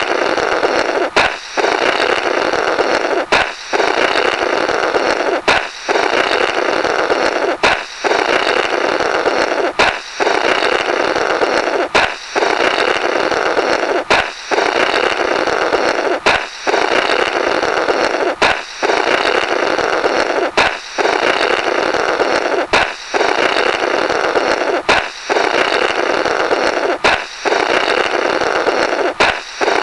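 A comic 'Blorrrt' balloon sound effect, repeated about every two seconds: a rubber balloon pops with a sharp crack, then someone blows a raspberry through the burst balloon's remnants.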